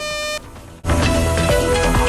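One short electronic alert beep, the last of a steady series of pulsed warning tones that sound after a tornado warning announcement. Loud music with a beat starts just under a second in.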